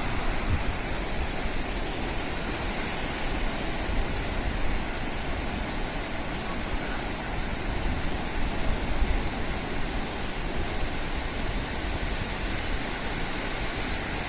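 Steady rushing of sea surf on a beach, with irregular low rumbles of wind on the microphone.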